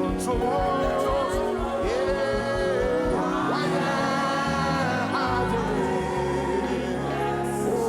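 Live gospel worship music: sung vocals over a band with sustained keyboard chords and a steady beat.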